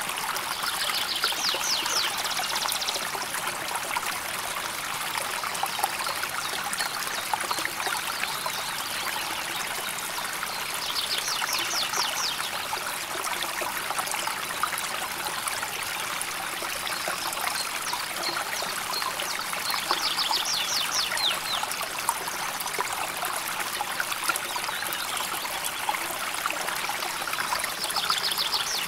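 River water flowing and trickling steadily over stones. A bird's short, rapid high trill rises above it about every nine seconds, four times in all.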